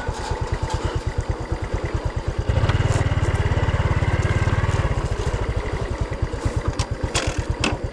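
Two-stroke brush cutter engine running at a low, pulsing idle, revved up about two and a half seconds in for a couple of seconds, then dropping back to idle. The engine runs poorly because of carburettor trouble that is being adjusted.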